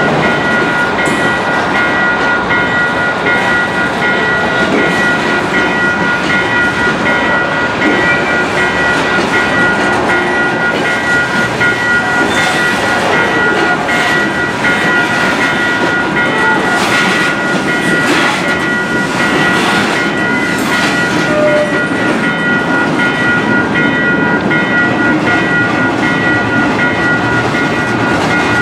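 Freight train cars rolling past at a grade crossing: a steady rumble and clatter of steel wheels on the rails, with a run of sharp clicks and squeaks in the middle. Two steady high tones ring over it throughout, which fit the crossing's warning bell.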